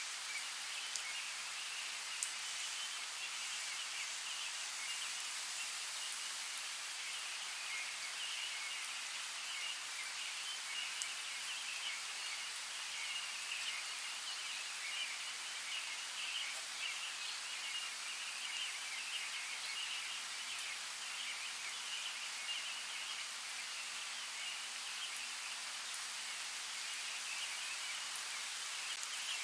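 Steady rain falling in a forest: an even hiss with scattered faint drip ticks and a high, fluttering shimmer layered over it.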